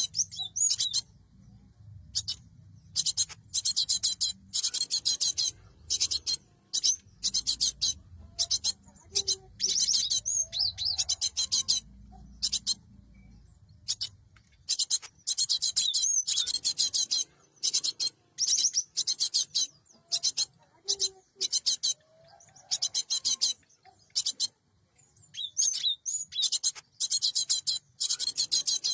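Cinereous tit (gelatik batu) calling: repeated high-pitched phrases of rapid, buzzy notes, each a second or less, separated by short pauses.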